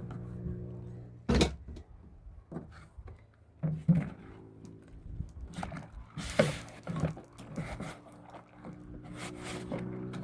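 A sharp knock a little over a second in, a thump near the middle, then a few scattered knocks and scrapes, over a steady low hum.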